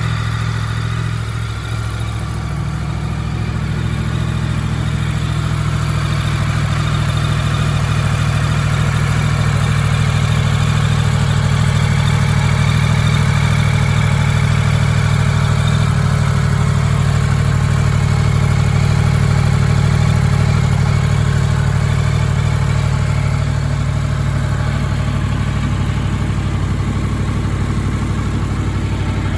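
Yamaha MT-10's crossplane inline-four engine idling steadily, warming up after a cold start.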